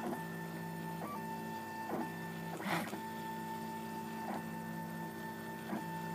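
RepRap Prusa Mendel 3D printer's stepper motors whining steadily as the print head runs back and forth laying lattice infill, with a short tick at each change of direction every second or so and a louder clatter a little under three seconds in.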